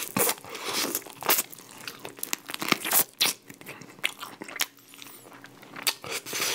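A person crunching and chewing crispy-coated Goobne Honey Curry Basasak chicken close to the microphone, with sharp, irregular crunches as the crust breaks.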